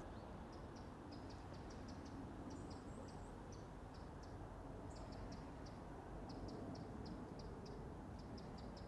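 Faint lakeside ambience: small birds chirping in short, irregular high chirps, with a brief high trill about two and a half seconds in, over a low steady background rumble.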